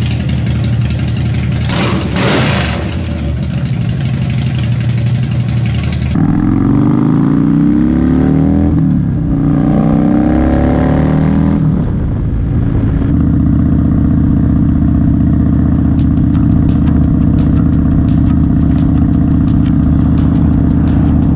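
Harley-Davidson Dyna's V-twin engine heard from the bike while riding, with heavy wind noise at first. In the middle it revs up and down through gear changes, then settles into a steady cruise. The sound changes abruptly twice where clips are cut together.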